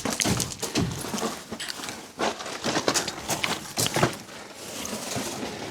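Irregular knocks, taps and clatter from hands-on work with sheet-metal ductwork.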